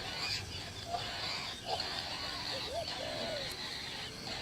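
Several short chirping bird calls, some rising and falling in pitch, over a steady background hiss.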